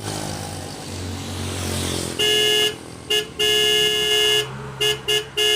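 A vehicle horn honks six times at one steady pitch: a half-second toot, a short one, a long one of about a second, two quick short toots, then a long blast. Before the honking, a motor vehicle's engine runs with a rushing noise.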